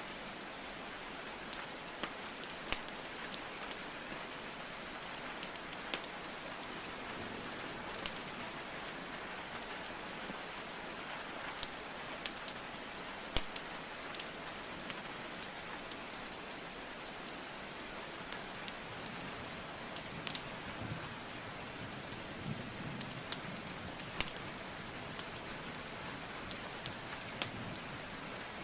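Steady hiss of falling rain with the irregular sharp pops and crackles of burning wood logs in a fireplace.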